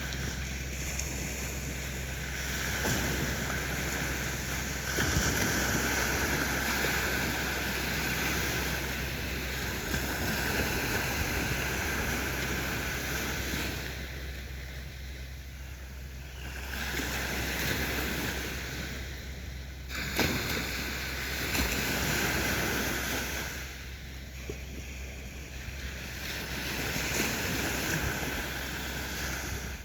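Sea waves washing onto a beach: a steady hiss of surf that swells and ebbs, easing off three times as waves draw back.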